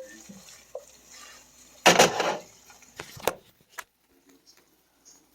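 Cookware clatter: one loud scraping clunk about two seconds in, followed by three short, sharp knocks.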